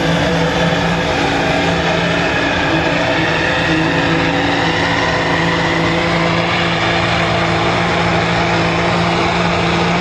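Diesel engine running flat out with a steady drone as it pulls a weight sled down the track.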